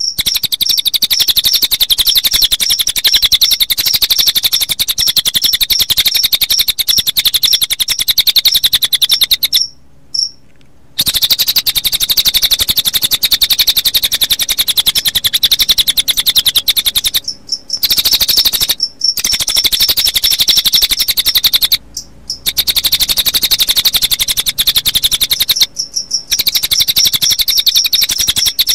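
Recorded cililin bird song mixed with cricket chirping: a continuous, rapid, high-pitched trill, broken by short pauses about ten seconds in and a few more times later.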